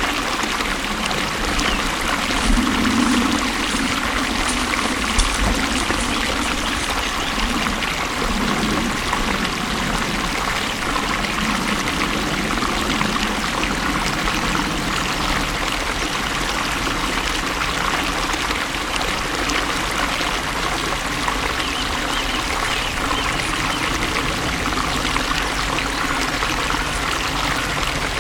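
Water flowing steadily, an even continuous rush and splash with no breaks.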